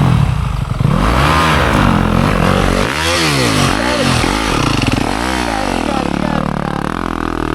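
Dirt bike engine revving up and down about five times in quick succession, short bursts of throttle as the rider tries to power up an icy hill.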